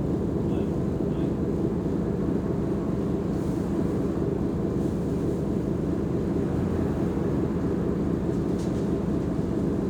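Mercedes-Benz O345 Conecto G articulated bus running steadily: a constant low diesel drone with no change in pitch or level.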